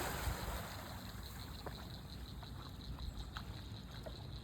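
A dog swimming out to fetch: the splash of her plunge into the water dies away in the first moment, then faint small splashes and trickling water.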